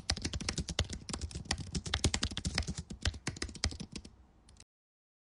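Rapid, irregular computer-keyboard typing clicks, many per second, that stop abruptly a little before the end into dead silence.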